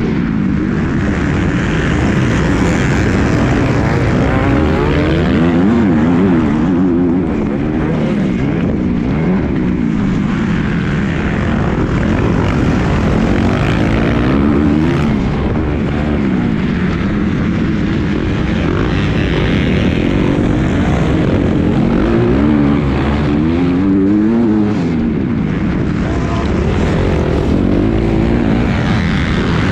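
Motocross bike engine racing, its pitch climbing and dropping again and again as the throttle is opened and shut through the gears.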